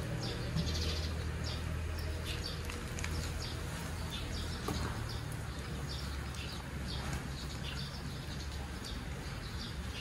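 Small birds chirping, short high chirps coming several times a second from more than one bird, over a steady low rumble.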